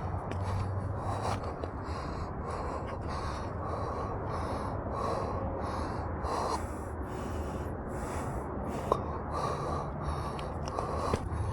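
A runner breathing hard and rhythmically, about two breaths a second, from the effort of running up a steep trail.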